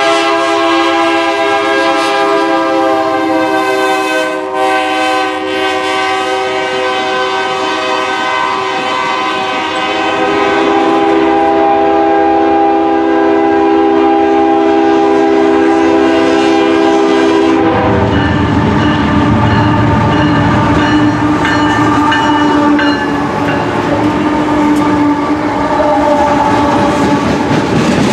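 Diesel freight locomotive's air horn sounding a long, loud chord, with a short break about four seconds in and a shift in the chord near ten seconds. About two-thirds of the way through the horn stops and the train rolls past close by: a heavy rumble of wheels and freight cars with clickety-clack over the rail joints.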